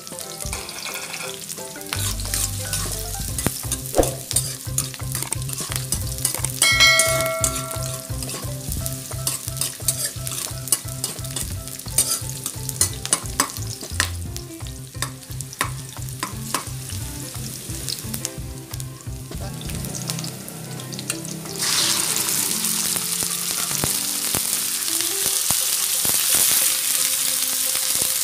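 Sliced onions and garlic sizzling in hot oil in a wok, with a metal spatula scraping and stirring against the pan. Past two-thirds of the way through, the sizzle jumps sharply louder and brighter as raw chicken pieces go into the hot oil.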